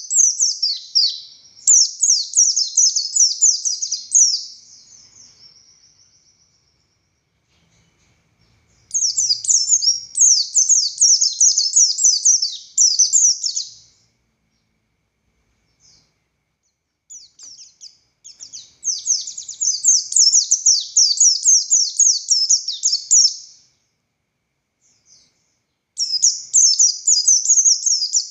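Pleci buxtoni white-eye singing: bursts of fast, high twittering lasting several seconds each. The bursts come in four bouts separated by pauses of a few seconds, with a few scattered notes in one of the gaps.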